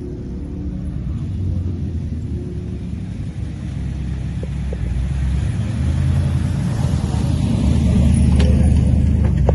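Car engine rumbling steadily, growing louder over the last few seconds.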